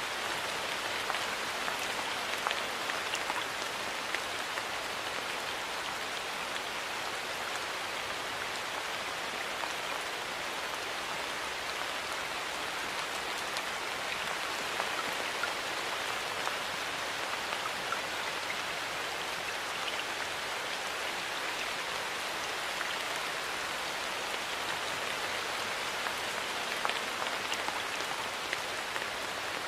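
Steady rain falling, a continuous hiss with the faint ticks of single drops landing on surfaces.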